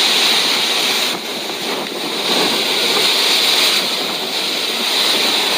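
Typhoon wind and storm-driven surf, a loud steady rush of noise that eases briefly about a second in, then returns.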